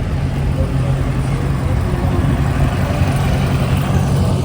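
An antique vehicle's engine running steadily, a constant low hum over a rumble.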